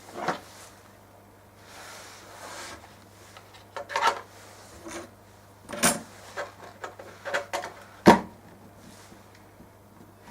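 Hardware being handled on a workbench: several separate knocks and clunks, the sharpest about eight seconds in, and a stretch of rubbing or sliding around two seconds in, over a faint steady hum.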